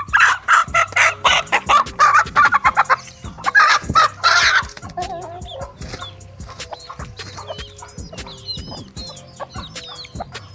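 Aseel chickens calling: loud, harsh, rapidly repeated squawking and clucking for about the first five seconds, then quieter, with chicks peeping faintly through the rest. Background music plays underneath.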